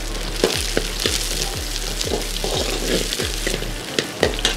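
Chopped onions sizzling in hot oil in a large kadai, being sautéed toward the translucent stage, while a metal ladle stirs them, scraping and knocking against the pan several times a second.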